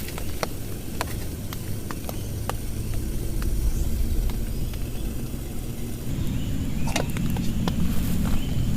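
Heavy rain pouring onto a tent: a steady, dense low rumble with scattered sharp taps of single large drops, getting a little heavier about six seconds in.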